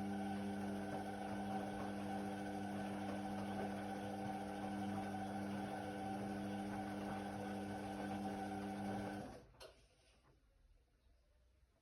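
Indesit WIDL 106 washer-dryer running with a steady hum, which stops suddenly about nine seconds in, followed by a single click.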